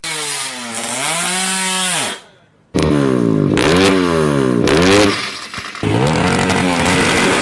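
Drag-racing motorcycle engine revved hard in repeated blips, its pitch climbing and falling again and again, with a brief cut-out about two seconds in.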